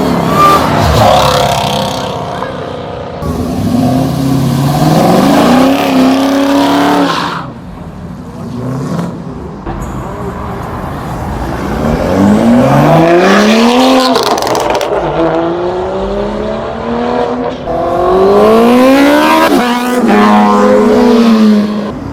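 Several cars pulling away hard one after another, engines revving up in rising pitch and dropping at each gear shift, with a quieter gap partway through.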